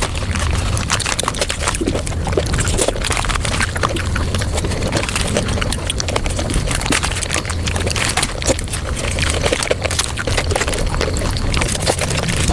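Close-miked eating of chocolate and ice cream, sped up fivefold: a dense, continuous run of rapid chewing and mouth clicks.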